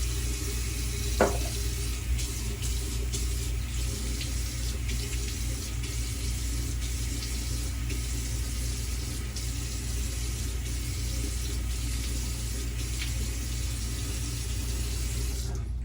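Cold water tap running steadily into a sink, with a few faint splashes, shut off abruptly near the end.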